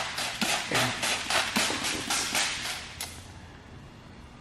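Trigger spray bottle squirting liquid in quick strokes, about four a second, that stop about three seconds in.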